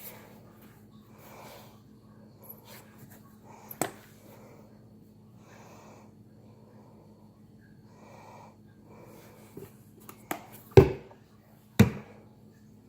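Mustard squeeze bottle being shaken and squeezed, giving soft wheezy sputters of air. There is a sharp click about four seconds in and two loud knocks about a second apart near the end.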